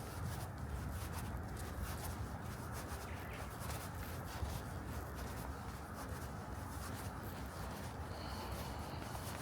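Steady scratchy rustling and rubbing, with many small faint clicks.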